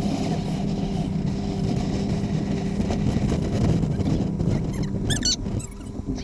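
Boat engine running with a steady drone that drops away near the end, with a few short high squeaks just before it stops.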